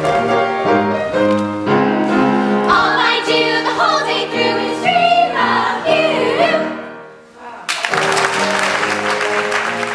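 Group of voices singing over instrumental accompaniment; the song ends about seven seconds in, and applause breaks out suddenly with music continuing underneath.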